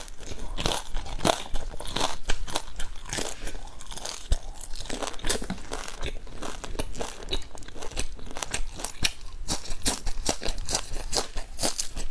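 Close-miked eating sounds: a person chewing and biting pan-fried dumplings, a quick irregular run of short crunchy mouth clicks.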